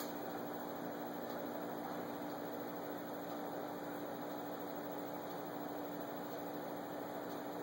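Steady electrical hum with a constant tone over an even hiss.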